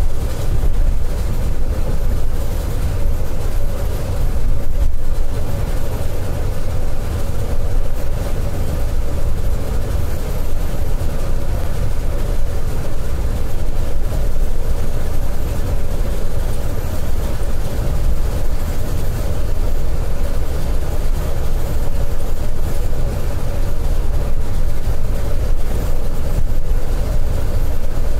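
Scania K410iB coach cruising at highway speed: a steady low engine drone and road rumble with a constant hum, no revving or gear changes.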